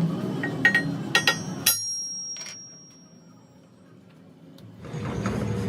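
A few sharp metallic clinks of metal tools or parts striking metal, the last leaving a high ring that hangs on for a moment. The background noise then drops away and comes back near the end.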